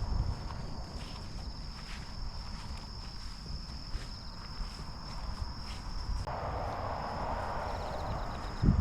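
Insects trilling steadily in one high pitch over a low rumble. A band of hiss comes in about six seconds in, and there is a thump near the end.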